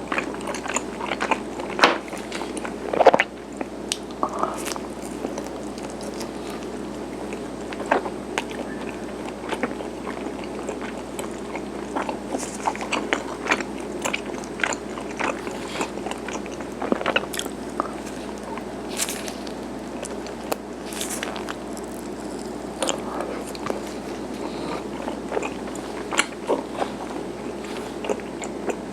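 A person chewing garaetteok, the soft cylindrical Korean rice cake, with many short, irregular sticky mouth clicks and smacks over a steady background hum.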